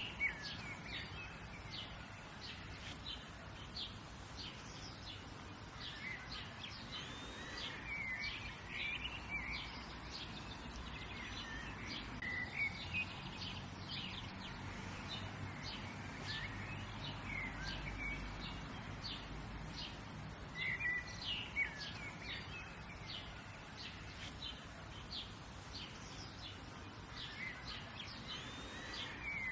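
Several songbirds chirping and singing in short, repeated phrases over a faint steady background rumble.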